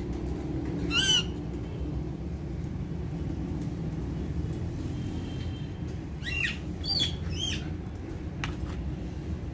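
Indian ringneck parakeet giving short squawks: one about a second in, then three in quick succession between about six and seven and a half seconds in. A steady low hum runs underneath.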